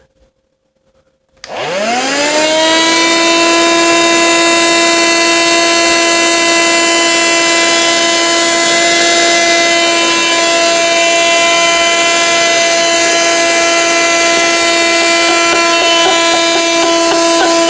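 Vacuum cleaner switched on about a second and a half in: its motor spins up with a quickly rising whine, then runs steadily with a loud whine over rushing air.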